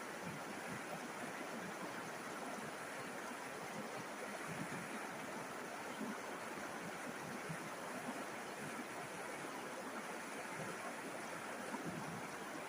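River water flowing and babbling over stones in a steady rush, with small splashes flickering through it.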